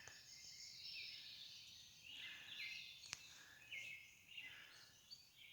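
Faint birdsong: short, high chirps repeating every second or so, with a single sharp click about three seconds in.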